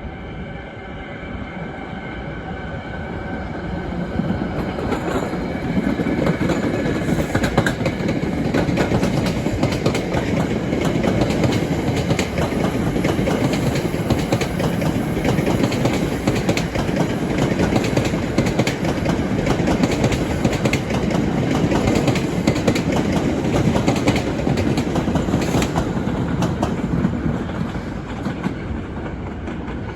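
Train passing close by, its wheels clicking rapidly over rail joints. The sound builds over the first few seconds, holds, and eases near the end.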